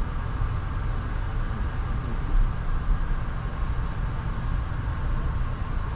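Steady low rumble of an Amtrak Crescent passenger train rolling along the track, heard from on board.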